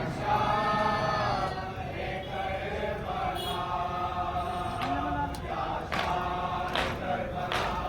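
A group of men chanting together in long held lines, a Muharram mourning chant, with a couple of sharp slaps or claps near the end.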